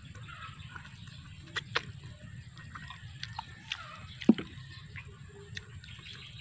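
Close-up wet chewing and lip-smacking of someone eating duhat (Java plum) fruit, with scattered sharp mouth clicks, the loudest a little past four seconds in.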